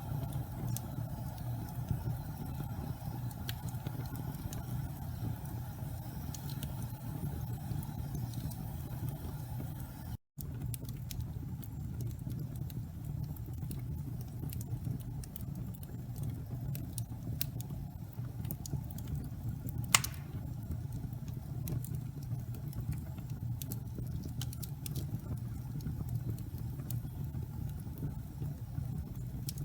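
Wood fire burning in a fireplace: a steady low rumble with scattered light crackles and one sharper pop about twenty seconds in. The sound cuts out for a split second about ten seconds in.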